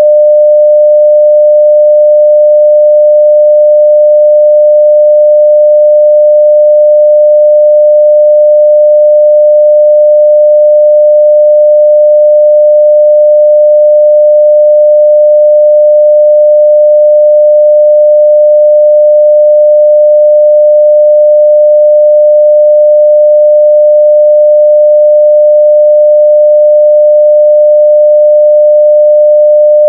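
A steady 600 Hz sine-wave test tone at full level, unbroken and unchanging in pitch.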